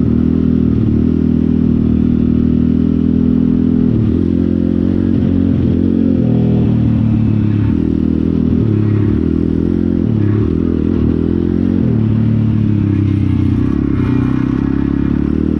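Pit bike engine running under changing throttle, its pitch stepping up and down every couple of seconds as the revs rise and fall.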